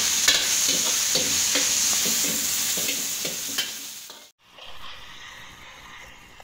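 Chicken pieces sizzling in hot oil in a wok, with a long-handled wok ladle stirring and scraping against the pan in repeated strokes. About four seconds in the sound cuts off, then comes back much quieter.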